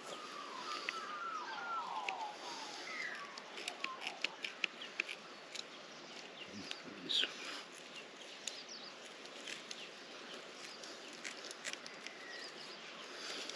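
Birds chirping and warbling in the background, with scattered short sharp clicks and snips of hands working close to the microphone.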